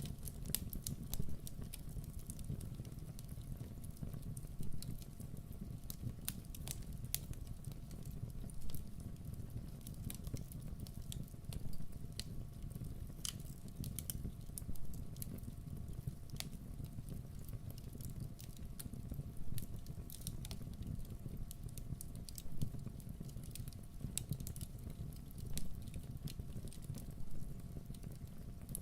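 Campfire burning, with irregular sharp pops and snaps of burning wood over a steady low rumble of the flames.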